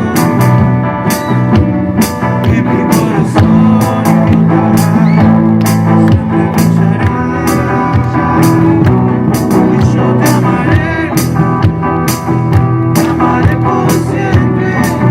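Live band playing rock-style music, with a steady drum beat under sustained instrument tones.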